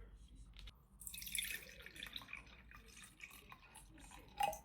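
Water pouring for a few seconds, starting about a second in, then a single short knock with a brief ring near the end.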